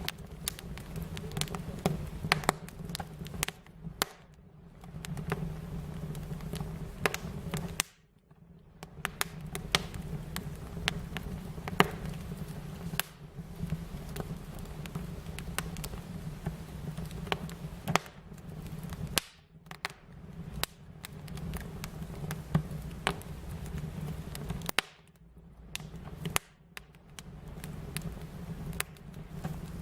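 Wood fire crackling, with irregular sharp pops and snaps over a steady low rumble of burning. The sound briefly drops away a few times.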